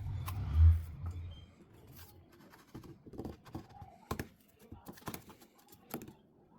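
Handling noise: a low thump about half a second in, followed by scattered small clicks and taps.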